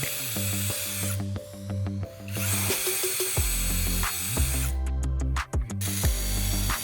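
A power tool running over background music with a steady beat.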